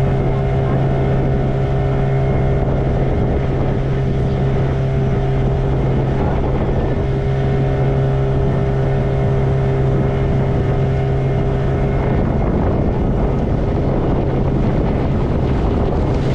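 Motorboat engine running at a steady speed, a constant low drone, with wind noise on the microphone.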